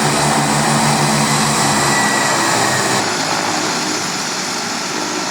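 Aircraft engines and propeller or rotor running loudly, with a low rhythmic pulsing that drops away about two seconds in.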